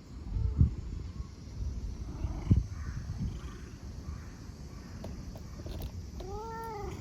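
A domestic cat meows once near the end, a short call that rises then falls in pitch. Low rumbling runs underneath, with a couple of dull thumps earlier on.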